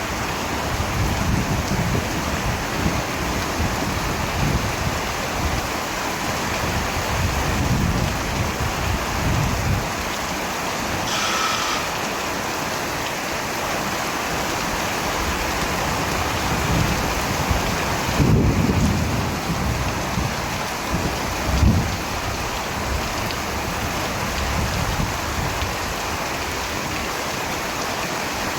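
Steady rain with rolling thunder rumbling again and again, the loudest roll about two-thirds of the way through. A brief high tone sounds near the middle.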